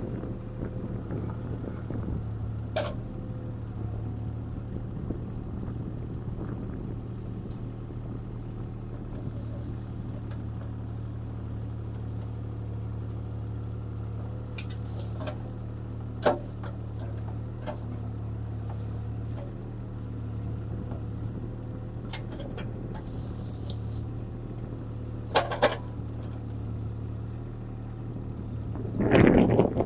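CAT 303C CR mini excavator's diesel engine running steadily, with a few sharp knocks and a louder surge of noise near the end as the machine works.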